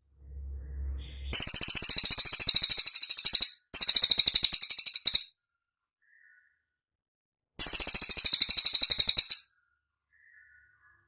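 Cililin bird singing: three bursts of very high, fast rattling trill, each one to two seconds long, with a short low rumble just before the first and faint single notes between them.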